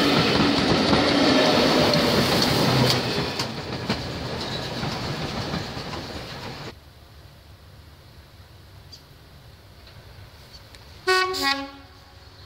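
Passenger coaches of a steam-hauled train rumbling and clicking over the rail joints as they run past, fading as the train draws away. Near the end a Class 101 diesel multiple unit sounds its two-tone horn briefly, a higher note followed by a lower one.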